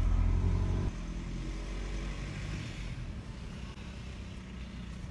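Volkswagen car's engine heard from inside the cabin, pulling away with a loud low hum for about the first second, then running steadily and more quietly as the car rolls forward.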